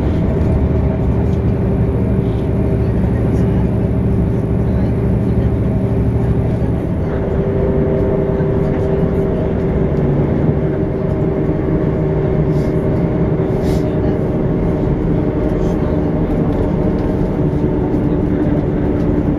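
Inside a moving passenger train: the steady rumble of wheels on the track under the hum of the train's engine or traction motors, which changes pitch about seven seconds in.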